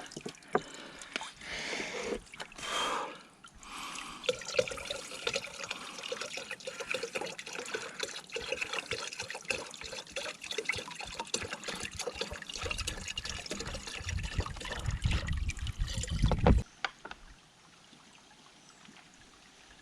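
Spring water trickling and splashing in a steady stream. A low rumble joins it for a few seconds about two-thirds through, then the sound cuts off abruptly and only a faint, even background remains near the end.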